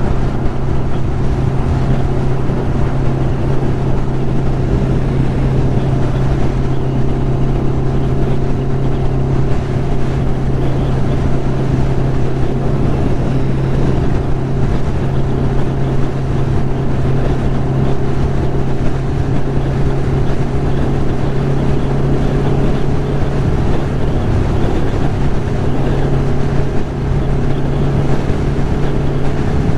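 1996 Kawasaki Ninja ZX-11's inline-four engine running at a steady cruising speed, with wind and road noise rushing over the microphone.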